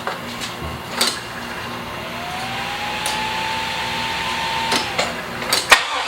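A small electric motor spins up into a rising whine, holds it steady for about three seconds and cuts off suddenly. Several sharp clicks come before and after it.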